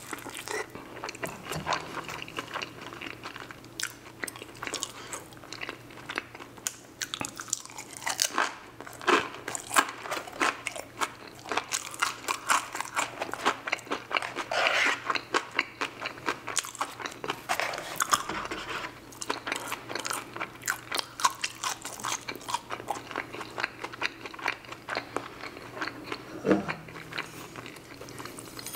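Close-miked mouth sounds of a person biting and chewing a crisp fried egg roll: a dense run of crunching crackles and clicks, busiest around the middle.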